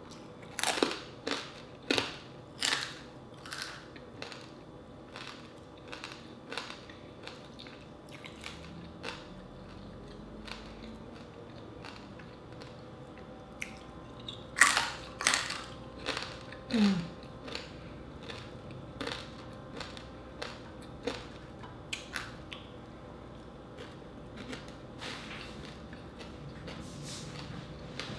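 Close-up crunching and chewing of crispy dried fish eaten by hand, irregular sharp crunches that come thickest about a second in and again around the middle, with quieter chewing in between.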